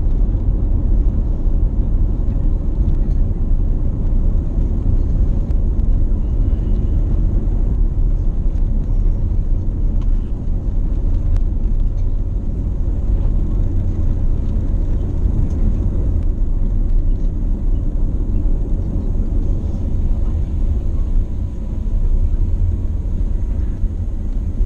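Steady, loud low rumble of an Airbus A350-900 heard from inside the economy cabin: engine and airflow noise of the airliner.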